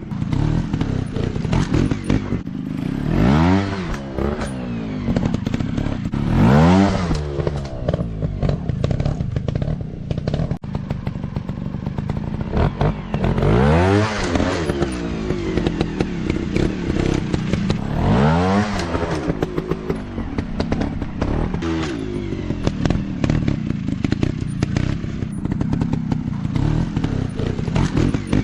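Dirt bike engine running, revved up and back down again several times in short throttle bursts, with knocks and rattles throughout.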